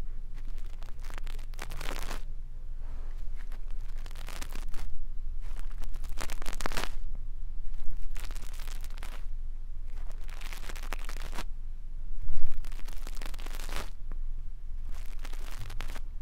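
Brush bristles rubbed over a microphone for ASMR ear cleaning: a run of scratchy swishes, each lasting a second or two, over a steady low hum.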